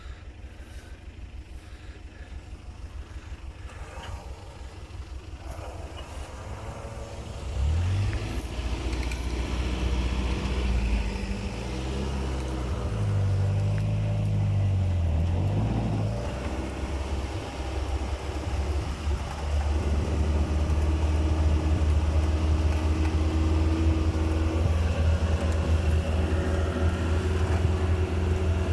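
UAZ 4x4 engine running under load during a tow recovery out of mud. It picks up sharply about a quarter of the way in and swings up and down in revs, then holds high, steady revs through the second half.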